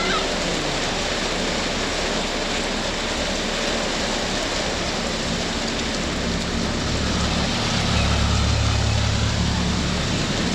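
Heavy tropical rain pouring steadily. About halfway through, the low hum of a passing motor vehicle rises through the rain and fades again near the end.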